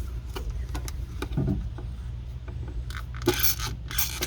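A plastic squeeze bottle scraping and clicking against the power steering reservoir as it is pushed in and squeezed to suck out the old fluid, with a run of short, louder hissing rasps about three seconds in. A steady low hum runs underneath.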